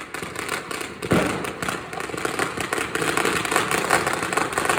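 Fireworks and firecrackers going off all over, a dense continuous crackle of bangs with one heavier boom about a second in.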